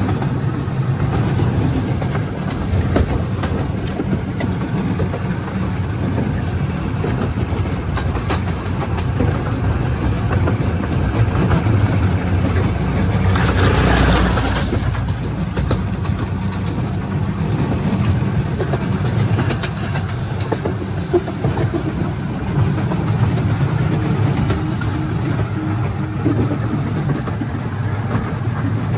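Wulai tourist trolley running along its narrow-gauge track: a steady low rumble and rattle of the wheels, swelling briefly about halfway through.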